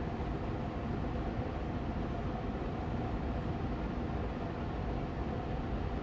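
Austin Air Allergy Machine air purifier fan running steadily on medium speed: an even, rushing hum, strongest in the low end, with a faint steady tone in it.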